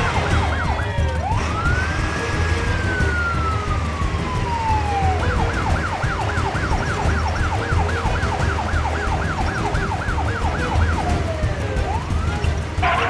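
Electronic emergency-vehicle siren: a long wail rising and falling once, then switching to a rapid yelp of about three sweeps a second, then wailing again near the end, over a steady low hum.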